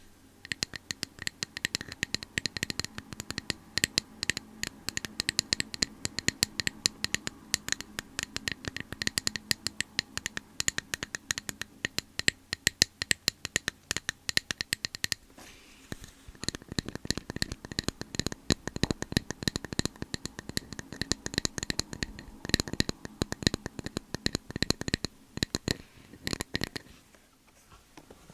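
Rapid tapping and scratching on an object as an ASMR trigger: many quick sharp clicks a second, with a brief pause about halfway through, easing off near the end.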